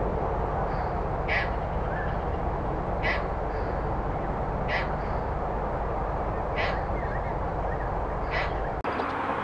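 A bird repeating a short call, one about every second and a half to two seconds, over a steady background hiss. The background changes abruptly near the end.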